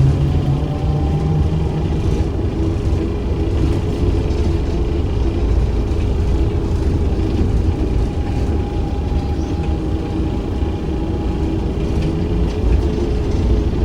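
ZiU-682 trolleybus on the move, heard from inside: steady low rumble from the road and body, with the traction motor's whine running underneath as a few steady tones, rising briefly near the start.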